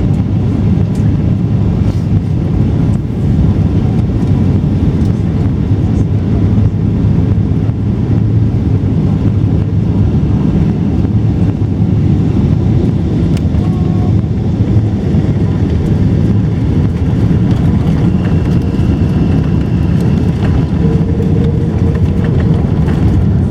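Steady, loud low rumble of an airliner cabin on arrival at Heathrow, from the aircraft's engines and airflow.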